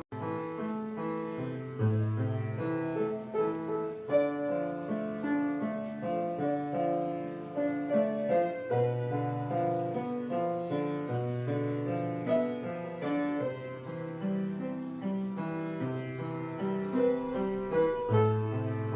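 Background piano music: a steady melody over a moving bass line.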